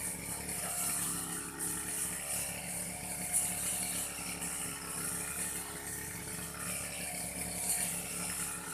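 Old petrol brush cutter running steadily while cutting grass, an even engine drone with a constant high hiss from the cutting head.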